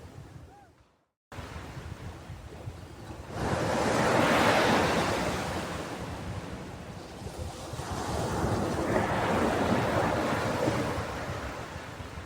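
Ocean waves breaking and washing on a shore, two swells surging up and falling away. A brief dead silence about a second in cuts the sound off before it resumes.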